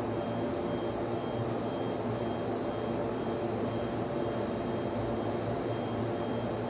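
Server room equipment running: the steady whir of cooling fans with a low hum, and a faint high-pitched tone that keeps cutting in and out.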